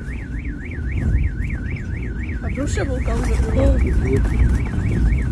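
Car alarm sounding, one tone warbling up and down about three to four times a second, over a steady low rumbling noise.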